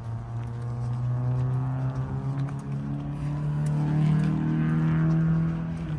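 Car engine running steadily at low speed, its hum rising in pitch about halfway through as the car speeds up a little, then dropping back near the end.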